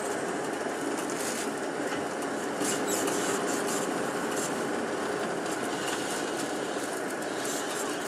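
Inside a moving tour bus: steady engine and road noise, with short high-pitched rattles now and then.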